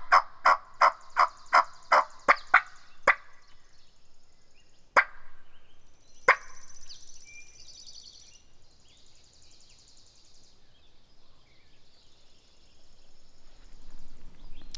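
Wild turkey alarm putts: a rapid run of sharp calls about three a second that stops about three seconds in, then two single putts about five and six seconds in, a sign the birds have spooked. Songbirds sing faintly afterwards.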